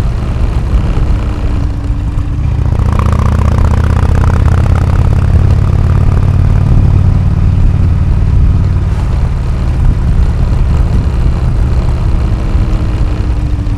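Harley-Davidson Road King Classic's Twin Cam 103 V-twin running through an AMC HD4 aftermarket exhaust; it gets louder and fuller about three seconds in, then holds steady.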